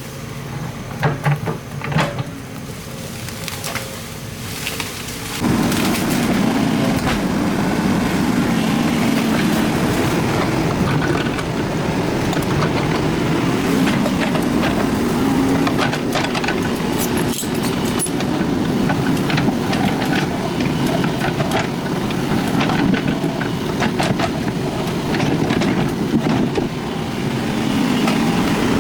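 Excavator engine working under load, with scattered knocks and clatter of rock and earth. The engine noise steps up sharply about five seconds in.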